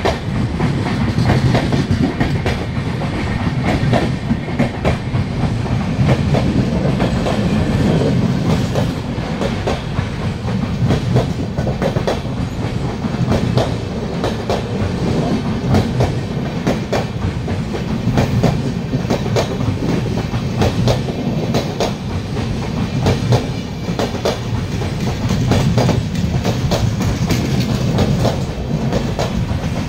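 Indian Railways passenger coaches rolling past, a loud steady rumble with the wheels clicking over the rail joints again and again.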